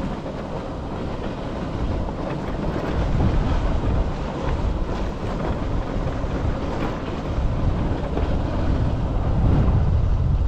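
Road noise of a moving vehicle, a steady rumble mixed with wind buffeting the microphone, growing somewhat louder near the end.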